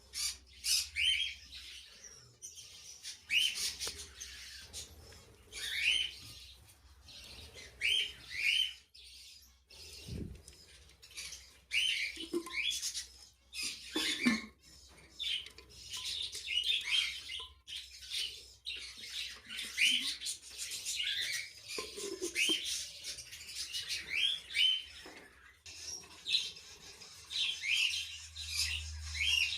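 Lovebirds chirping: short, sharp, rising chirps, often two or three in quick succession, repeated every second or so.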